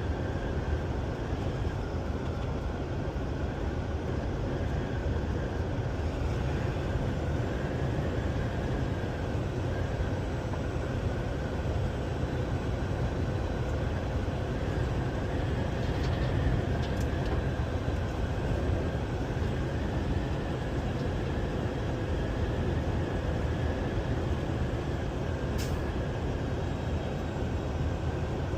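Steady low rumble of a heavy vehicle under way, with a faint steady tone above it and a few short clicks later on.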